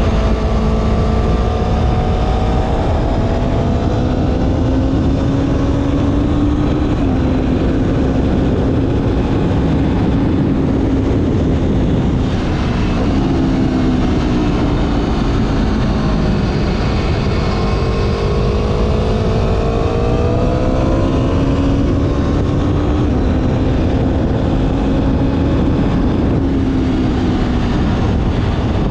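Motorcycle engine running at riding speed, its pitch rising and falling several times with throttle and gear changes, under heavy wind noise on the camera microphone.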